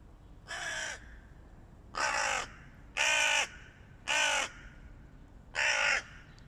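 Hooded crows cawing: five caws of about half a second each, spaced roughly a second apart.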